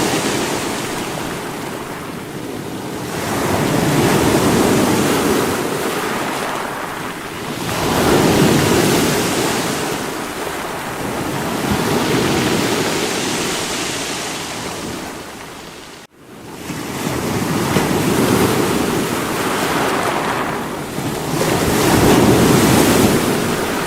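Sea waves breaking against rocks, a rushing wash of surf that swells and ebbs every few seconds. The sound cuts out for an instant about two-thirds of the way through, then resumes.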